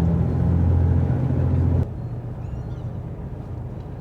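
Passenger train running: a steady low drone and rumble, which drops suddenly to a quieter rumble about two seconds in.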